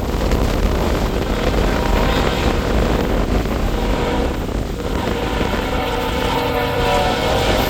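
A steady low rumble, with a freight locomotive's horn chord sounding faintly at first and swelling louder from about five seconds in as the train approaches.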